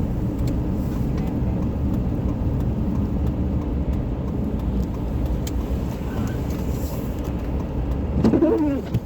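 Steady low road and engine rumble inside a moving car's cabin. A short voice-like sound near the end is the loudest moment.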